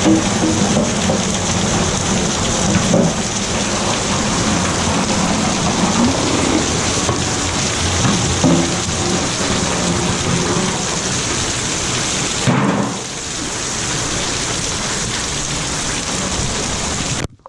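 Heavy rain pouring down in a steady, dense hiss. It cuts off abruptly near the end.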